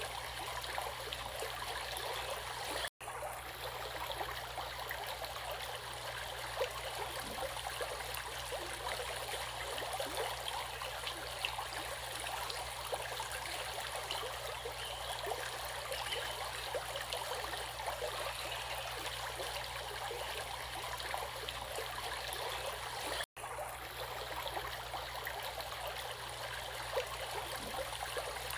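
Running water flowing steadily with a fine splashing babble. It cuts out for an instant twice, about three seconds in and again near the end.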